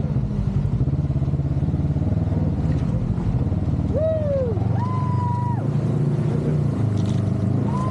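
An off-road side-by-side engine running steadily. Over it, a few sustained higher-pitched tones sound: one rises and falls about four seconds in, another is held for nearly a second just after, and a third comes near the end.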